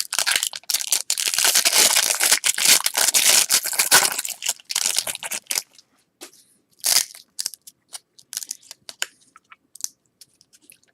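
Trading-card pack wrapper being torn open and crinkled for about the first five seconds, then sparse light rustles and ticks of cards being handled.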